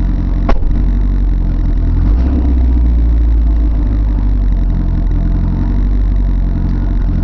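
Renault 5 GT Turbo's turbocharged four-cylinder engine idling, heard from inside the cabin, its low note shifting slightly about two seconds in. A sharp click sounds about half a second in.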